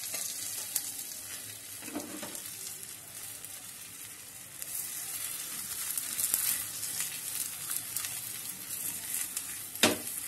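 Methi paratha sizzling and crackling as it shallow-fries in hot oil on a non-stick tawa; the sizzle grows louder about halfway through. A single sharp knock near the end.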